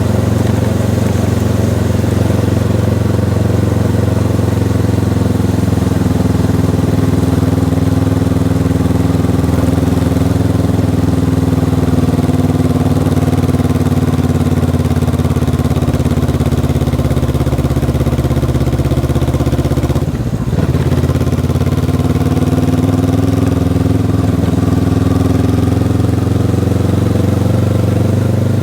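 Honda CB500X's stock parallel-twin engine running under way, a steady note that wavers a little with the throttle. About twenty seconds in the note drops briefly, then climbs again.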